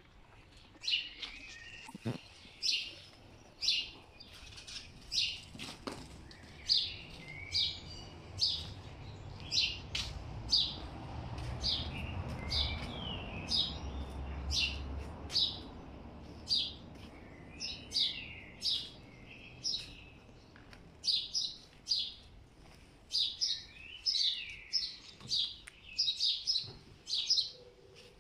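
Small birds chirping in short, sharp, repeated calls, about one or two a second, with a faint low rumble that swells and fades midway.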